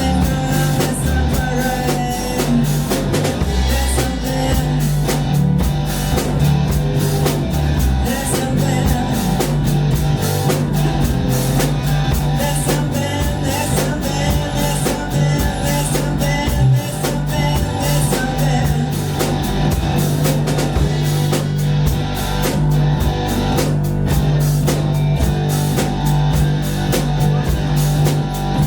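Live rock band playing: guitar, bass and a drum kit keeping a steady beat, with some singing.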